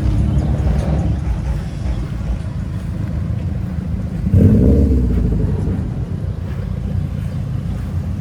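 Car engine running with a low rumble, with a sudden short rev about four and a half seconds in.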